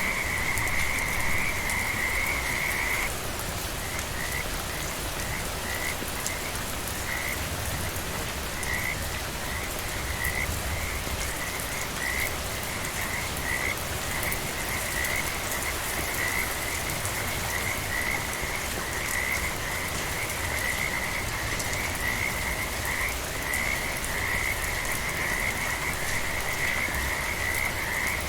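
Frogs calling in a chorus at one steady high pitch over the even hiss of falling rain. The calling is a continuous trill for about the first three seconds, then breaks into short repeated calls that come closer together toward the end.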